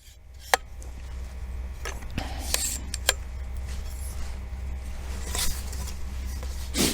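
Camera gear being set up by hand: scattered clicks, clinks and knocks, seven or so, over a steady low rumble.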